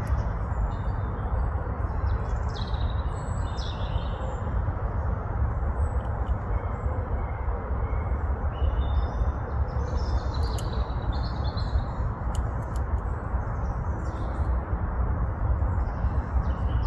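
Small birds chirping in short runs of calls over a steady low rumble of background noise, with a few sharp clicks a little after the middle.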